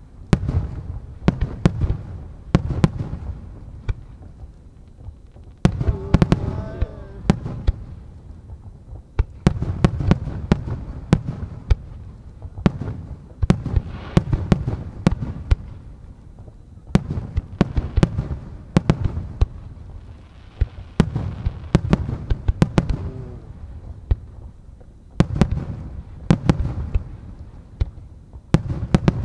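Fireworks display: aerial shells bursting in rapid volleys of sharp booms with deep rumbling reports, coming in waves every few seconds with short lulls between.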